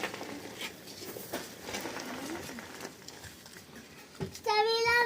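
Faint hiss and scattered light knocks, then about four and a half seconds in a child's high voice calls out loudly and holds the note.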